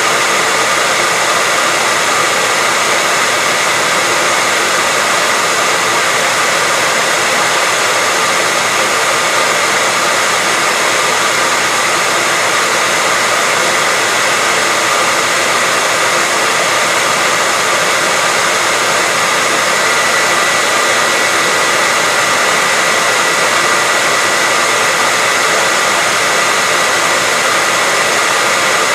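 Hair dryer blowing steadily, a constant rush of air with a faint whine from its motor and fan.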